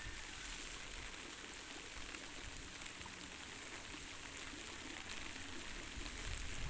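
Steady hiss of rain falling and rainwater running, even throughout with no distinct events.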